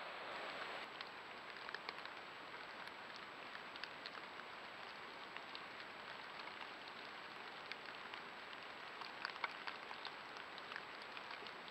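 Rain falling steadily: a constant hiss with scattered drops ticking, a few louder ones near the end.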